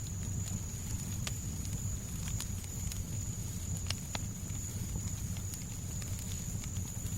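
Fireplace fire crackling, with scattered sharp pops about once a second over a steady low rumble of noise. A thin, steady high tone is held underneath.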